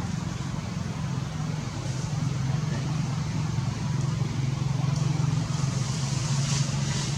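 A steady low motor hum with a noisy hiss above it.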